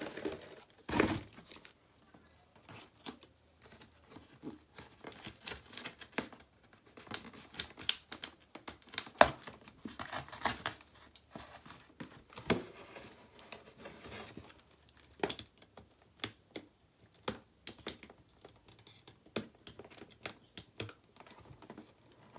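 Packaging of a toy RC car being opened by hand: crinkling and tearing with irregular crackles and snaps, one sharper snap about nine seconds in.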